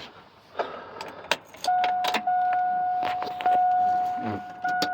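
Keys clicking, then the truck's dashboard warning chime sounding a steady electronic tone that pings again about every second, starting about a second and a half in.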